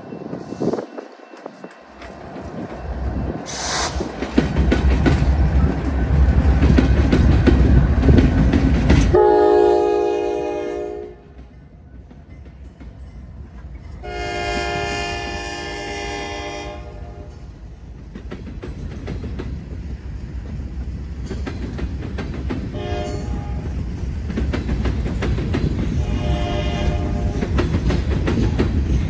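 Norfolk Southern train passing with a loud rumble and clatter of wheels on rail, which stops abruptly, then a locomotive horn sounding two long blasts followed by shorter, fainter ones.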